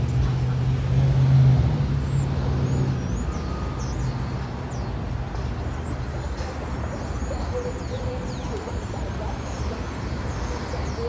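A motor vehicle engine running with a steady low hum, strongest for the first three seconds and then easing off, with faint short high chirps above it.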